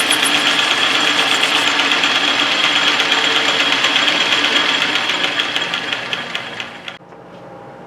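A loud electric motor running steadily with a high whine and a fast even pulse. It fades over its last couple of seconds and cuts off about seven seconds in.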